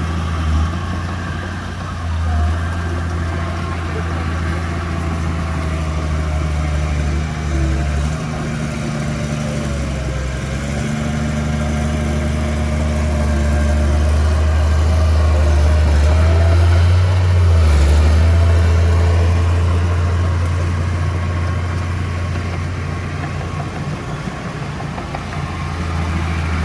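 Diesel engine of heavy earthmoving machinery running with a steady deep hum, growing louder around the middle and easing off again later.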